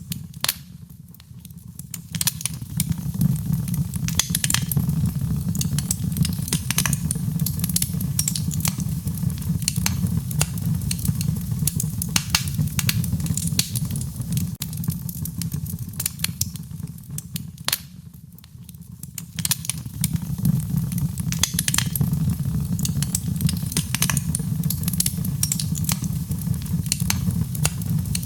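Wood fire crackling, with frequent sharp pops and snaps over a steady low rumble of the flames. The sound dips briefly twice, about a second in and again about eighteen seconds in.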